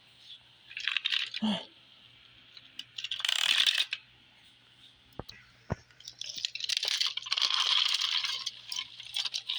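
Scraping and rustling of toys being handled, in several bursts of a second or more, with two sharp clicks in the middle.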